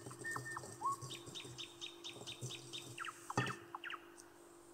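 A small bird chirping: a few short down-slurred whistles, then a quick run of about ten high notes at some five a second, then more down-slurred notes. Under it, a wire whisk ticks lightly against a glass bowl of egg-white icing being beaten by hand, with one louder knock about three and a half seconds in.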